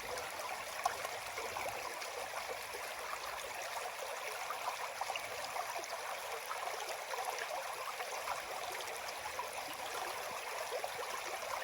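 River water flowing across a shallow crossing: a steady, even rush of running water with small scattered trickles.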